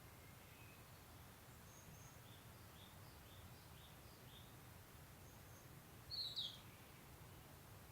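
Faint outdoor ambience: small bird chirps repeating about twice a second over a low steady rumble, with one short, louder bird call a little past six seconds in.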